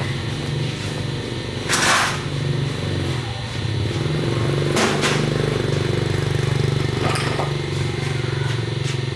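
Small motorcycle engine running steadily, with two brief louder noisy bursts, about two seconds in and again about five seconds in.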